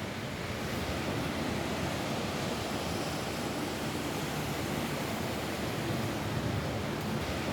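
Steady rain falling on a roof: an even, unbroken hiss with a low rumble under it.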